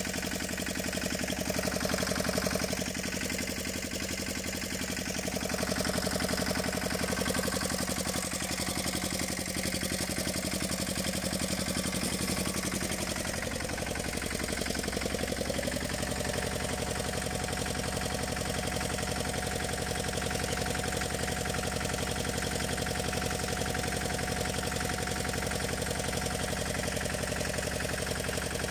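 Small tractor engine of a 1982 Tomo Vinkovič TV 522 running, its pitch shifting a little in the first half, then settling to a steady idle.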